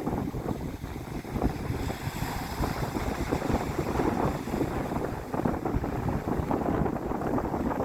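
Wind buffeting the microphone as a rough, fluttering rumble, with water washing beneath it.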